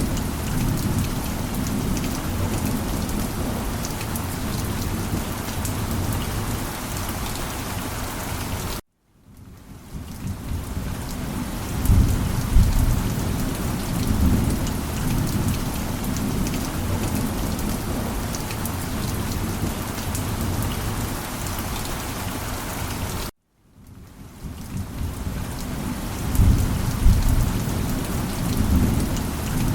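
Steady heavy rain with low rumbles of thunder. The rain cuts out abruptly twice and fades back in, and each time a deep thunder rumble swells up a few seconds after it returns.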